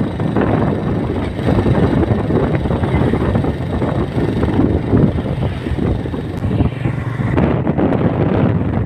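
Wind buffeting the microphone in a loud, steady rush with a low rumble underneath; the high hiss thins out about seven seconds in.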